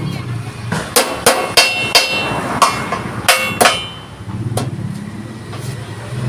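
Hammer blows on thick steel plate: about ten sharp, ringing metallic strikes at an irregular pace, closely spaced in the first four seconds and sparser after. A steady low hum runs underneath.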